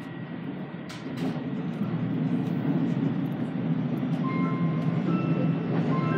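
Running noise inside an Aichi Loop Railway 2000-series electric train: a steady low rumble of wheels on rail. It grows louder about two seconds in and holds there, with a few faint brief tones near the end.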